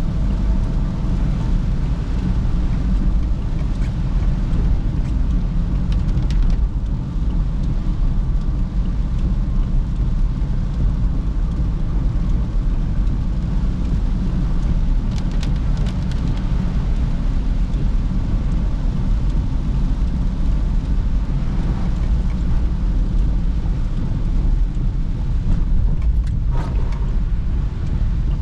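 Perodua Bezza driving, heard from inside the car: a steady low rumble of engine and road noise, with a few brief clicks now and then.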